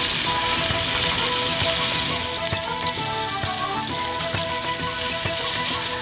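Hamburger patty sizzling steadily as it fries over a wood and charcoal fire.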